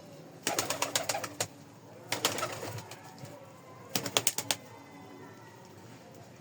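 Pigeons, with three short bursts of rapid clatter, each under a second long, about half a second, two seconds and four seconds in.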